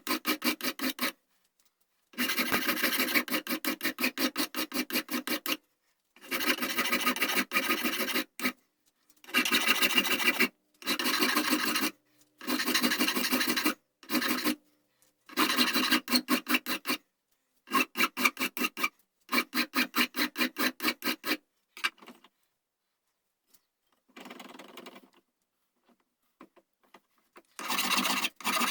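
A hand rasp shaping the wooden buttstock of a flintlock shotgun, worked in bouts of quick, rhythmic scraping strokes with short pauses between them, and a longer pause near the end.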